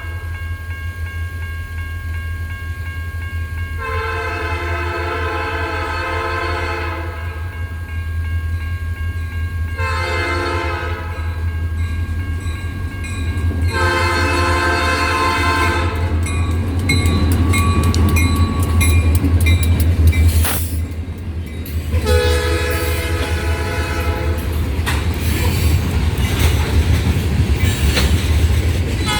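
Diesel freight locomotives approaching and passing, the lead unit sounding a multi-note air horn in separate long and short blasts over a steady low engine rumble. From about halfway on, wheels clack over the rail joints as the train goes by, and another horn blast comes near the end.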